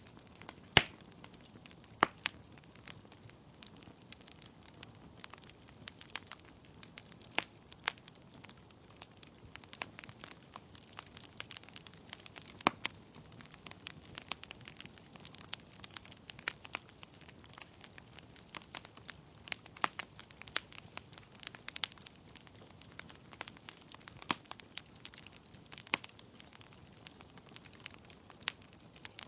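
Wood fire in a fireplace crackling: burning logs give off irregular sharp pops and snaps, a few of them louder, over a soft steady hiss of flame.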